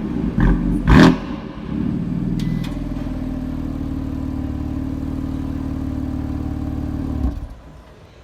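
BMW M3 F80's twin-turbo inline-six exhaust: two quick throttle blips, then the engine settles into a steady idle and shuts off near the end.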